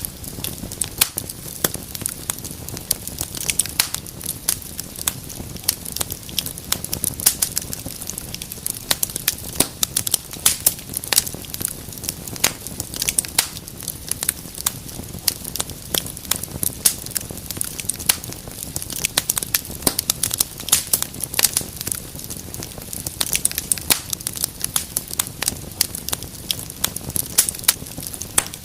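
Wood fire in a fireplace crackling steadily: dense, irregular sharp pops and snaps over a low hiss and rumble of burning.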